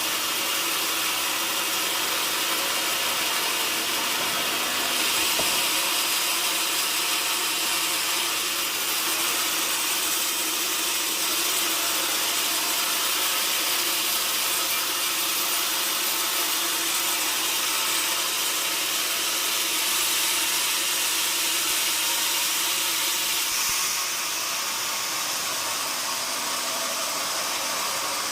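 Sawmill saw running steadily through wood, a continuous loud noise that shifts slightly in tone about four seconds before the end.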